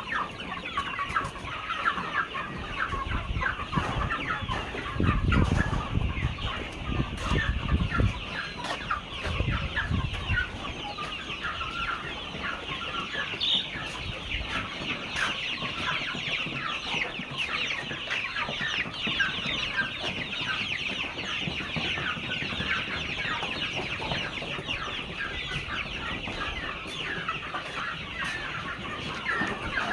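A large flock of chickens clucking continuously, many birds calling over one another. Low rumbling noise comes in during the first ten seconds, loudest between about five and eight seconds in.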